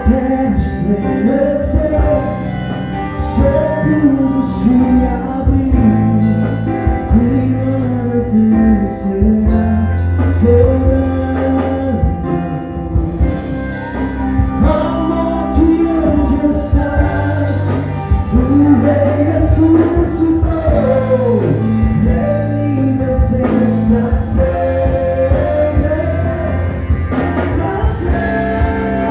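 A church band playing a gospel song: a singer's voice over electric guitar, bass and drums.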